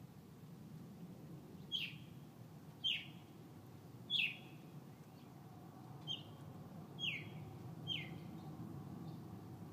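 A bird calling six times: short, sharp chirps that each slide downward in pitch, spaced irregularly about a second apart, over a faint low background rumble.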